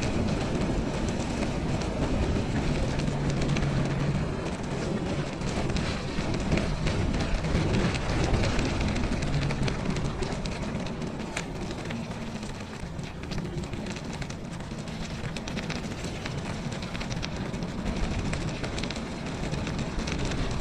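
Bicycle ridden along a snowy trail: a steady rushing of tyres and moving air, with many small rattles and crunches.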